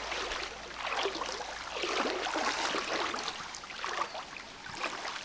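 Wading through a river: water sloshing and splashing around the legs in irregular surges with each step, over the running stream.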